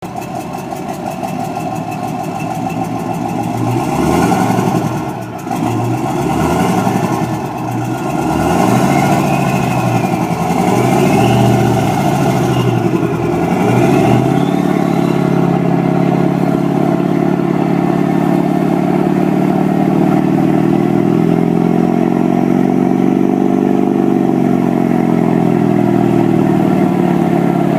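Port engine of an Atlantic 34 boat running. For about the first fourteen seconds its speed rises and falls unevenly, then it settles into a steady run.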